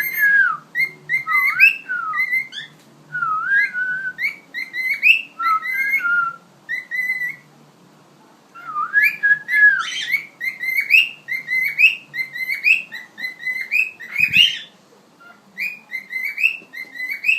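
Cockatiel whistling a tune in repeated short phrases of rising and falling notes, pausing twice for about a second. A single low thump comes near the end.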